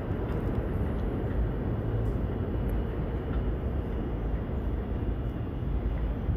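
New York City subway train running through the station: a steady low rumble with no distinct horn or brake squeal.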